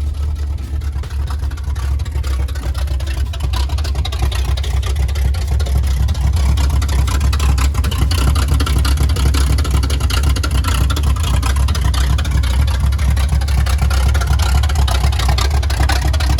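1977 Chevy K10's V8 engine running just after being started, warming up from cold, with a heavy, steady low rumble. It grows a little louder over the first several seconds, then holds.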